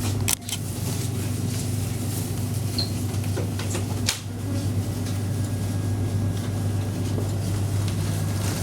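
Steady low mechanical hum, with a sharp click or knock just after the start and another about four seconds in.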